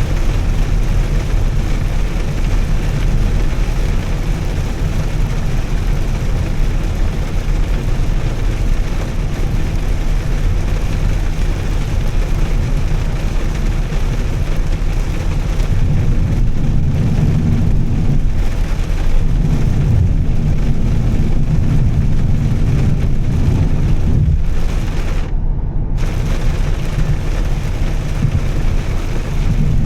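2013 Volvo S60 T6's turbocharged straight-six, fitted with a Heico aftermarket exhaust, running under way with steady road noise. The low engine rumble swells louder for several seconds past the middle.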